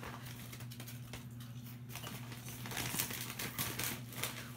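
Sweet potato crisps being crunched, a rapid, irregular crackle of small clicks, over a steady low electrical hum.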